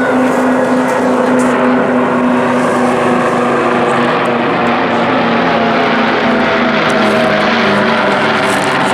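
Piston aero engines of the Battle of Britain Memorial Flight's Dakota and Spitfires running in flight, a steady loud drone with its pitch slowly falling.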